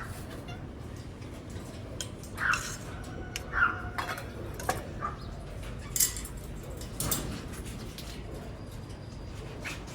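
Parrots giving a few short calls, roughly a second apart, among scattered sharp clicks and taps.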